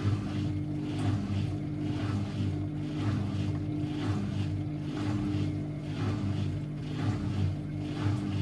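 Constructa Energy 1000s washing machine running: a steady motor hum with a regular swishing pulse about twice a second as the drum turns.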